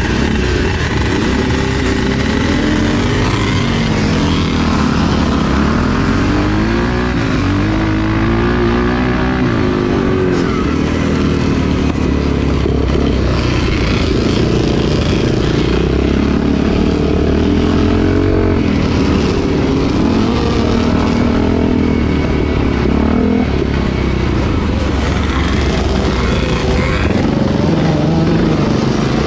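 Vintage motocross motorcycle engine racing, its pitch rising and falling again and again as it revs up and drops back through gear changes and throttle changes.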